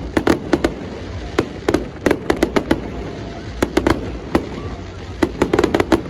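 Fireworks display: sharp bangs going off in quick, irregular bursts, with a dense cluster of bangs near the end.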